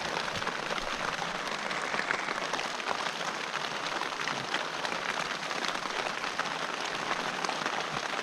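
Heavy rain falling steadily, a dense patter of many small drop ticks.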